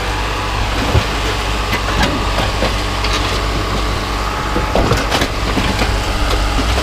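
Engine running steadily at idle, with scattered metallic clanks and knocks from scrap shifting as a caught load is pulled off.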